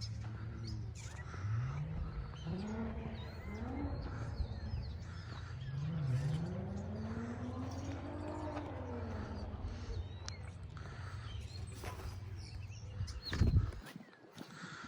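Small birds chirping and calling faintly over a steady low rumble, with slow low tones rising and falling in the middle; the rumble cuts off suddenly near the end.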